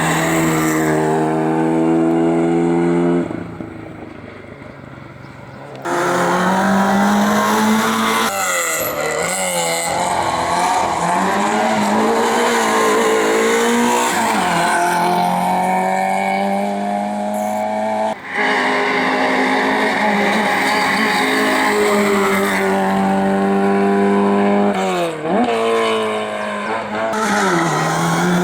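Race car engines under hard acceleration, the pitch climbing and then dropping sharply again and again as they change gear, with some tyre squeal. The sound changes abruptly a few times between passes, quieter for a few seconds about three seconds in.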